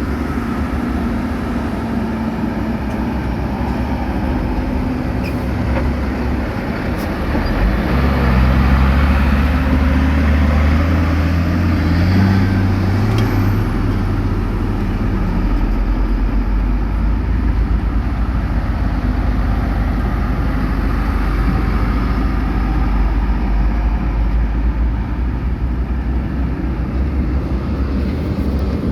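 Diesel engine of heavy earthmoving machinery running steadily. About a third of the way in it revs up and works harder for several seconds, then settles back.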